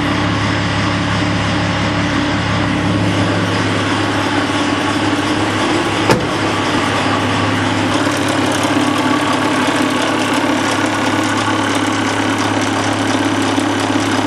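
Mercedes OM603 3.5-litre turbodiesel straight-six idling steadily from a true cold start, with a single sharp click about six seconds in.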